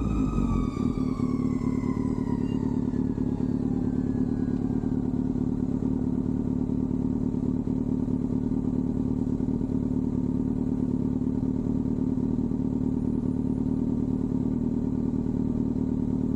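Kawasaki ZX-6R inline-four sport bike engine running steadily at a low, even speed. Over the first few seconds a higher whine falls away in pitch and fades out.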